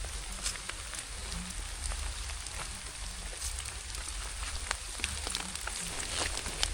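Steady rain falling, with scattered raindrops ticking sharply close by.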